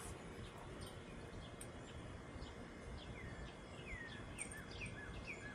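A bird calling a run of short chirps that each slide downward in pitch, about five in quick succession from about three seconds in, over faint steady outdoor background noise.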